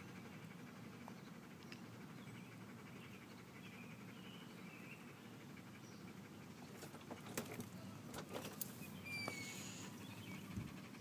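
Faint outdoor ambience: a low steady background hum with small birds chirping faintly, and a cluster of clicks and short chirps about seven to nine seconds in.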